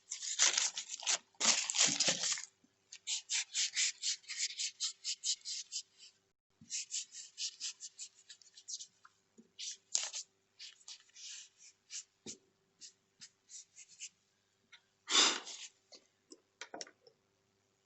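Mechanical-pencil eraser rubbing on sketchbook paper in quick back-and-forth strokes, about five a second, in runs with short pauses, with a louder rustle of paper at the start and again about 15 seconds in.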